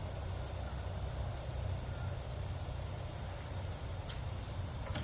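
Steady background hiss with a low hum, with a couple of faint ticks near the end; no engine is running.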